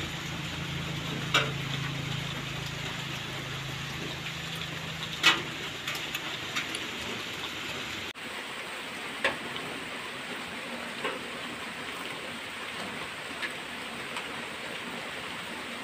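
Heavy rain falling steadily on the roof of a wooden forest hut, an even rushing hiss. A few short sharp clicks stand out now and then.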